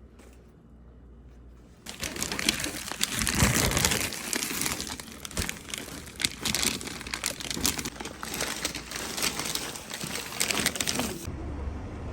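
Crinkling and rustling close to the microphone, with dense crackles that start about two seconds in and stop abruptly near the end.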